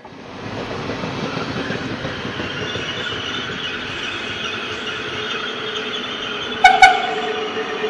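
Passenger train of coaches rolling past on the station track, its wheels squealing in several steady high tones over the rumble. About two-thirds of the way in come two short, loud horn toots in quick succession.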